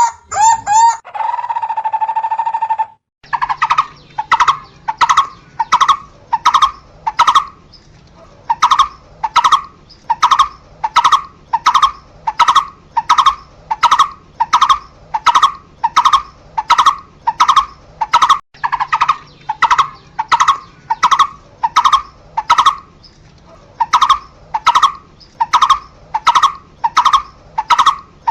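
A barbet calling: a brief held note at the start, then, after a short gap, a long series of evenly repeated call notes, about two a second, with a pause of about a second twice.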